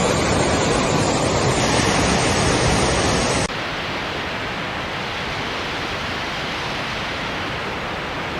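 Steady, loud rushing noise of fast-flowing floodwater, without any distinct events. About three and a half seconds in, it drops abruptly to a somewhat quieter, similar rush.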